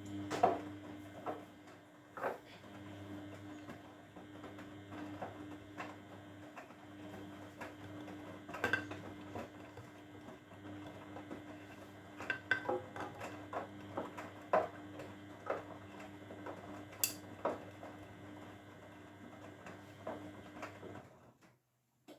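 Grundig washing machine running a wash cycle: the motor hums steadily with a constant tone while the laundry tumbles in the drum, and irregular sharp clinks sound against the drum. Everything stops abruptly shortly before the end.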